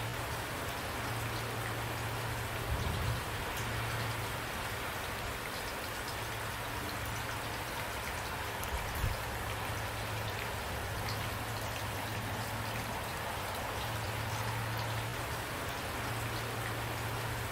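Steady rain, a dense patter of drops, over a low steady rumble, with two brief low thumps about three and nine seconds in.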